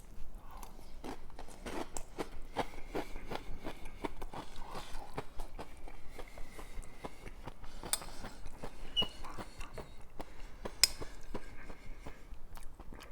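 Close-up mouth sounds of chewing picadillo with crunchy corn chips: irregular crunches and wet chewing, with a couple of sharper clicks partway through.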